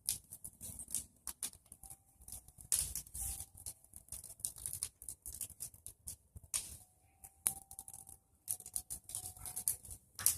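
Bonfire of pruned tree branches crackling: a dense, irregular run of sharp snaps and pops, with a few louder pops scattered through.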